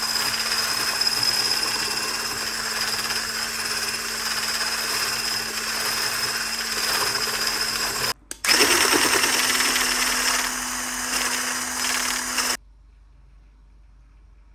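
Small electric kitchen appliance motor running steadily, pausing for a moment about eight seconds in, then running again until it cuts off near the end.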